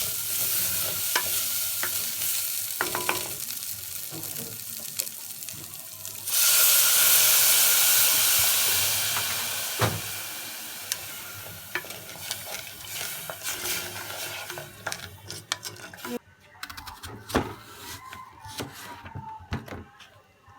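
Rice frying in hot oil in a pan, sizzling while a spoon stirs and scrapes. About six seconds in the sizzle suddenly grows much louder, then fades over several seconds; near the end it is quieter, with scattered clicks of the spoon against the pan.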